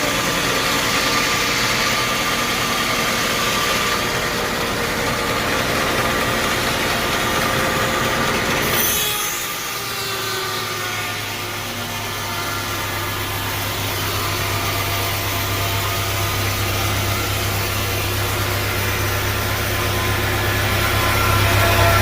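Sawmill machinery running steadily, with engine-like noise. About nine seconds in the sound shifts abruptly, and a steady low hum carries on to the end.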